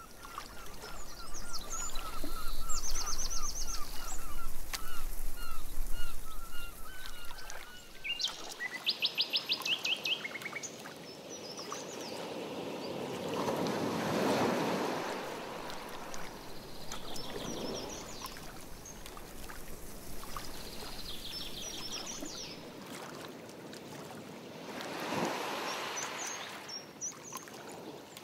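Songbirds singing: runs of quick repeated chirps and high rapid trills, loudest in the first third. A canoe paddle swishes through the water a few times, plainest near the middle and near the end.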